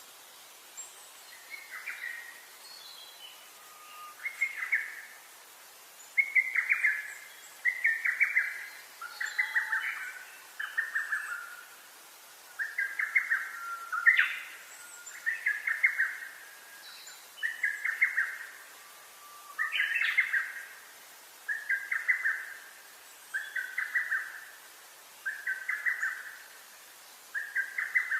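Birdsong: a bird repeats a short trilled phrase about every two seconds, with a few fainter, higher chirps from other birds in between.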